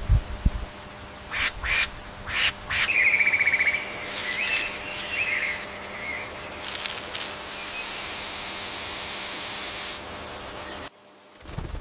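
A bird's short harsh calls and a quick chattering trill, with a steady high hiss building behind them that cuts off abruptly near the end.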